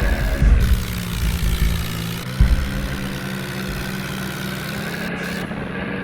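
Swaraj tractor's diesel engine running steadily, with a few uneven low surges in level.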